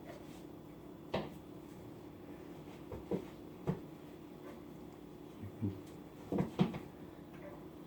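A bird striking the side of a camper, heard from inside as a series of dull, irregular knocks, spaced out at first and then clustered in quick succession near the end.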